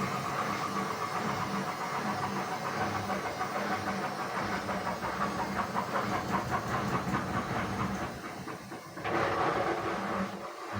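Indesit WISN 101 washing machine in its rinse cycle: the motor hums steadily as the drum turns, with water sloshing and hissing inside. The sound drops about eight seconds in and picks up again a second later.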